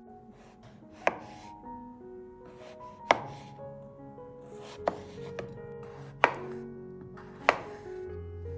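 A kitchen knife slicing through potatoes and striking a cutting board five times, one slow, separate cut every second or two. Soft background music plays under the cuts.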